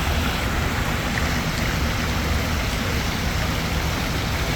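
Water fountain splashing steadily, with a low rumble underneath.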